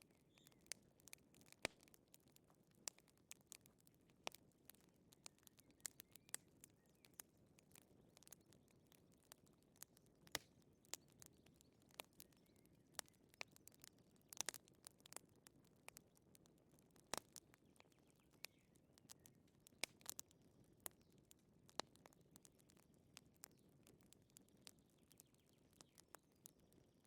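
Wood fire crackling softly: irregular small pops and snaps over a faint low hiss.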